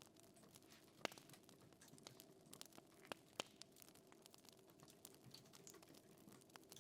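Faint fire crackling: irregular soft ticks and a few sharper pops, one about a second in and two close together near the middle, over a low steady hum.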